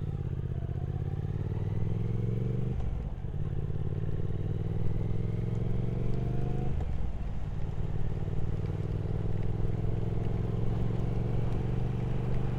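Triumph Speed Twin 1200's parallel-twin engine accelerating, its pitch climbing in each gear with two upshifts, about three and seven seconds in.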